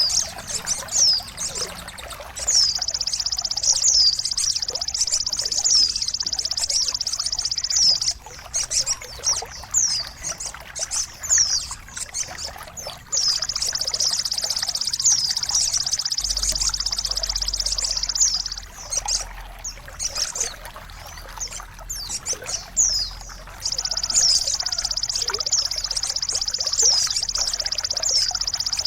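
Songbird tutor recording: quick, high, down-slurred notes repeat throughout over a dense, high, buzzing trill. The trill runs for about five seconds at a time, three times. It is the kind of song played to caged birds to coax them back into singing.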